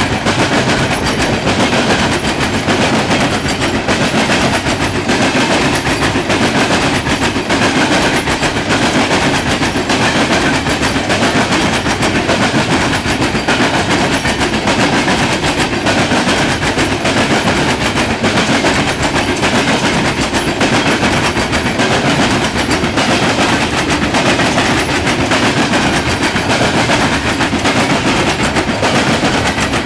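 Norfolk Southern coal train's cars rolling steadily past at close range: a loud, continuous rumble of steel wheels on rail with a clickety-clack of wheels over rail joints.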